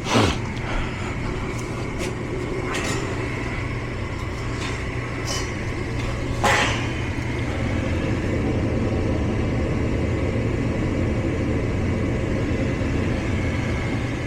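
Gas furnace's blower running with a steady hum, getting a little louder partway through, with a few sharp clicks and knocks; the loudest comes about six and a half seconds in.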